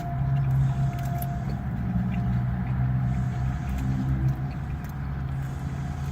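A steady low engine hum with a faint, thin higher tone above it, and a few small clicks scattered through it.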